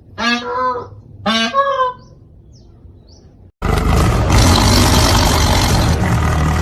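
Peacock calling twice, two loud honking wails about a second apart. About three and a half seconds in, a loud steady rushing noise starts abruptly.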